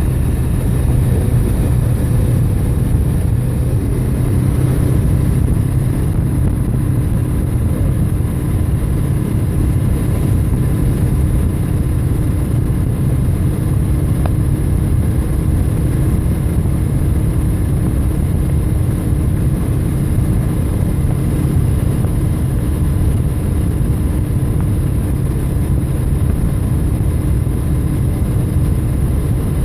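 Steady drone of a bike being ridden at an even speed: a loud low rumble with a faint steady hum over it, unchanging throughout.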